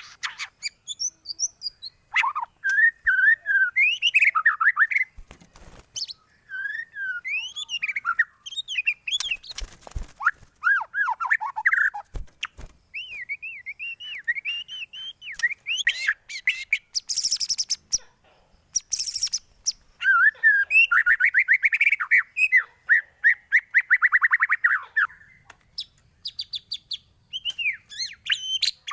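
White-rumped shama (murai batu) singing a long, varied song of whistled phrases and rising and falling notes, broken by two short, high, harsh notes past the middle and a fast rattling trill held for several seconds later on.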